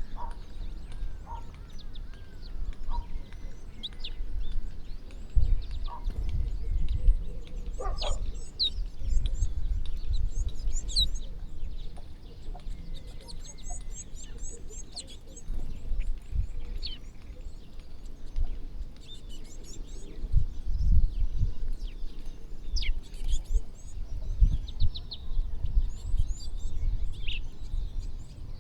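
A large flock of feeding birds chirping and calling, many short high chirps and quick trills overlapping throughout. Irregular low rumbling runs underneath.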